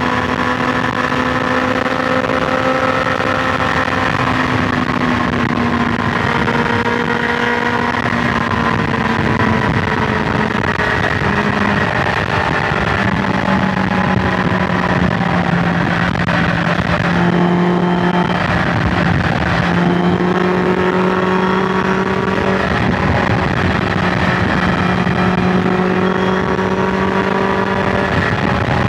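BMW S1000XR inline-four engine running steadily at highway cruising speed, with wind and road noise. Its pitch steps lower about twelve seconds in and briefly dips again around eighteen seconds.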